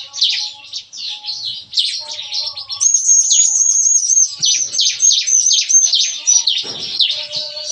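Crystal bar-winged prinias (ciblek kristal) singing busily, a rapid-fire stream of high, down-slurred chirps. From about three seconds in, this turns into a fast, even run of repeated notes.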